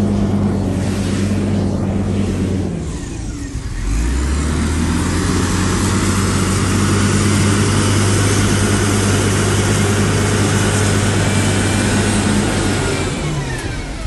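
Heavy earthmoving machine's diesel engine working with a steady drone. The engine note sags and drops lower about three seconds in, then holds steady, and dips again near the end as the load changes.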